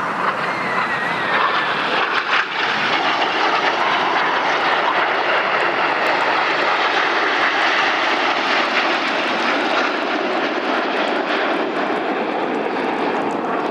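BAE Hawk T1 jets flying a display pass, their Adour turbofan engines making a loud, steady rushing jet noise.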